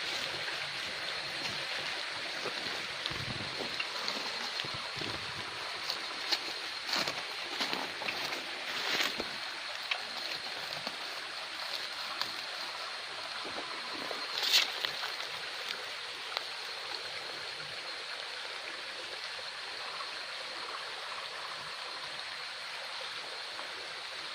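Steady rushing outdoor background like a stream, with a thin steady high tone over it. A few short rustles or knocks come through, the sharpest about 14 seconds in.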